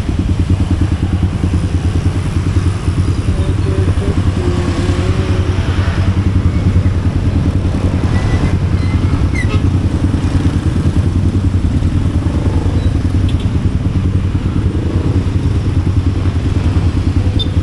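Motorcycle engine running steadily, its firing pulses dense and even.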